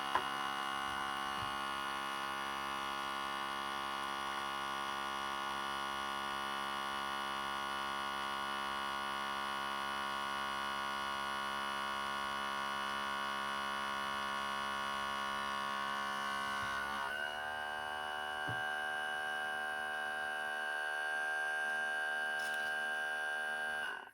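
OutIn Nano portable espresso machine's electric pump running steadily as it brews, a buzzing hum that changes tone about 17 seconds in. It cuts off suddenly near the end as the brew finishes.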